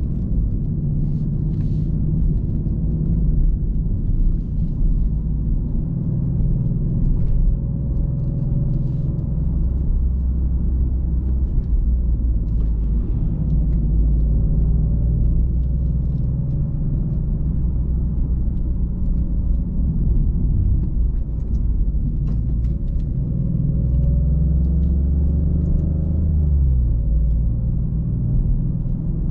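Maserati GranTurismo Modena's twin-turbo 3.0-litre Nettuno V6 running as the car drives, a steady low drone with road rumble. Near the end the engine note rises in pitch, then drops away.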